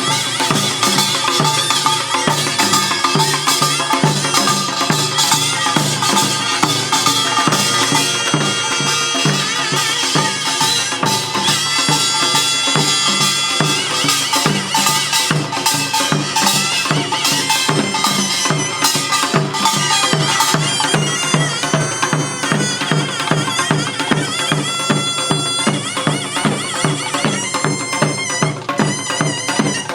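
Korean pungmul folk band playing: a taepyeongso (double-reed shawm) plays a loud, reedy melody over a fast, steady beat of small gongs and drums.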